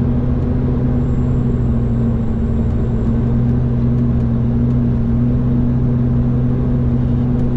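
Road-train prime mover's diesel engine running at a steady speed, a constant low drone with no change in pitch.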